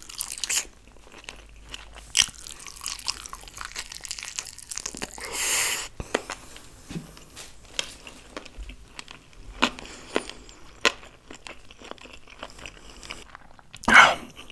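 Close-up chewing of a mouthful of fried, sauce-coated chicken lollipop: wet mouth sounds with scattered crunches and clicks. There is a short hiss about five seconds in and a louder burst near the end.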